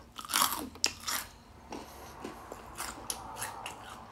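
A person chewing a spoonful of Apple Jacks Caramel cereal close to the microphone: irregular crunches, the loudest in the first second or so, then fainter ones.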